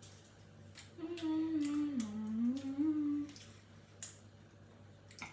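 A woman humming one long closed-mouth 'mmm' of about two seconds that dips in pitch and rises again, with a few light clicks of utensils around it.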